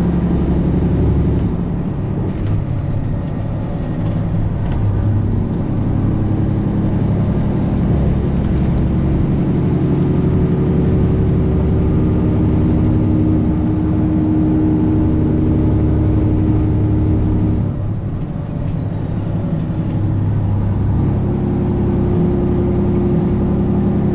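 Semi truck's Detroit Diesel 12.7 engine running steadily under way. A thin high whine rises about eight seconds in and falls away near eighteen seconds, where the engine sound dips briefly before picking up again.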